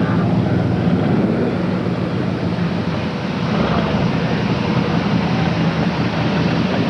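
A steady low drone, like a vehicle engine idling, holding an even pitch.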